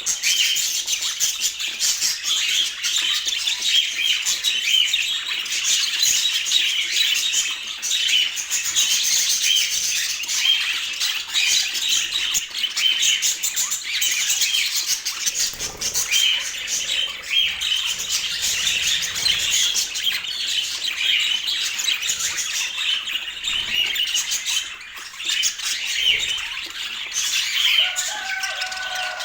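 Budgerigars chattering and chirping without a break, a busy high-pitched warble, with a lower, falling call near the end.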